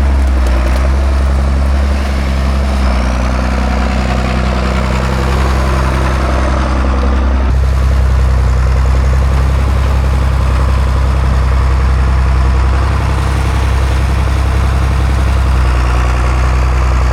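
A John Deere tractor engine idling steadily after a cold-weather start. Its note changes abruptly about seven and a half seconds in, then runs on steadily.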